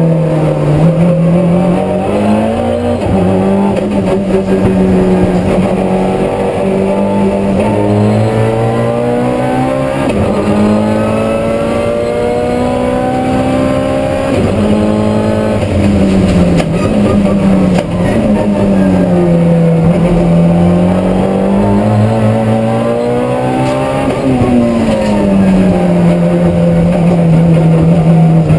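Time attack race car's engine heard from inside the cockpit, under hard acceleration on a fast lap, its revs repeatedly climbing and dropping as the driver accelerates and slows through the corners.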